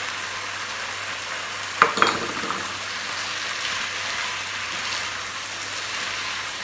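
Potatoes and purslane sizzling in a pot as they are stirred with a wooden spoon, a steady frying hiss. Two sharp knocks close together about two seconds in.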